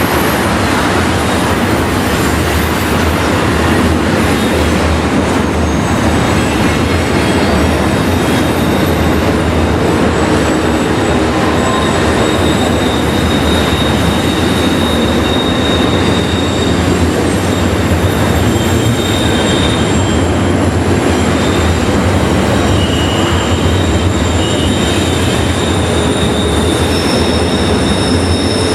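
Freight train cars rolling past with a steady rumble, their steel wheels squealing in thin high tones that come and go, more so in the second half.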